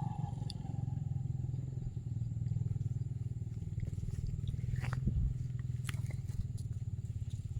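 An engine running steadily, with a low thrum made of fast, even pulses.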